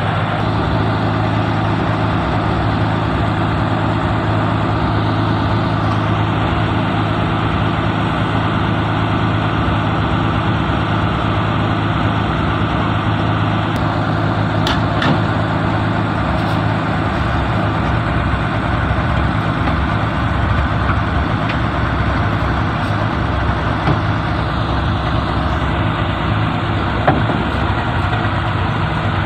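Heavy diesel engine running steadily at an unchanging speed, with a few faint clicks about halfway through.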